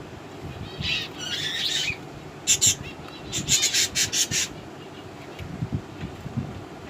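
Budgerigars calling: a scratchy chatter about a second in, then a quick run of sharp, loud chirps in the middle.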